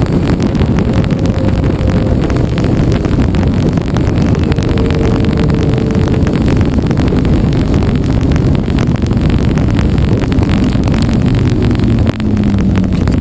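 KTM 990 Super Duke's V-twin engine with an Akrapovič exhaust running steadily, heard from a handlebar-mounted camera with wind buffeting the microphone. The sound dips briefly near the end.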